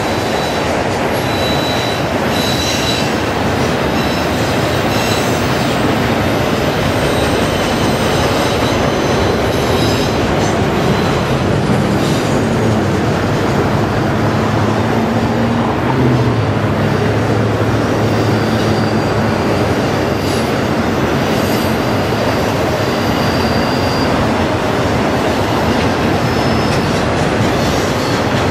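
Enclosed autorack freight cars rolling past: a steady, loud rumble and rattle of steel wheels on the rails, with thin high wheel squeals that come and go, near the start and again past the middle.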